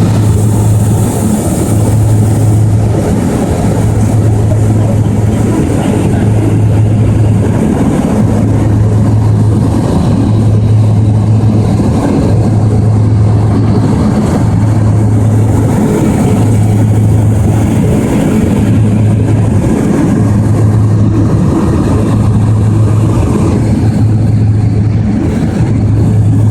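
Light sightseeing plane's engine and propeller droning steadily, heard inside the cabin: a loud low hum that swells and dips about every two seconds over a dense rumble.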